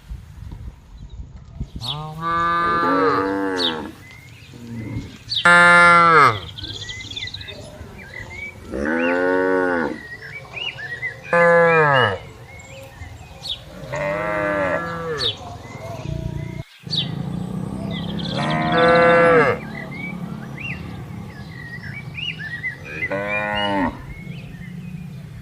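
Cattle mooing: about seven long moos in turn, a few seconds apart, each sliding down in pitch.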